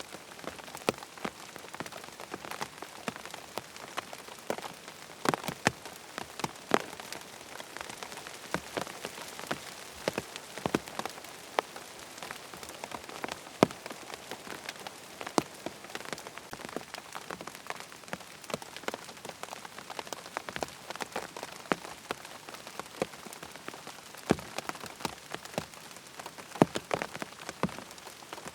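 Rain falling on a tent: a steady patter, with many separate drops ticking sharply and irregularly on the fabric.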